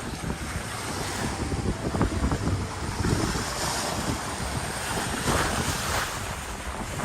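Wind buffeting the microphone over the rush of waves and water along a sailboat's hull at sea, rising and falling unevenly.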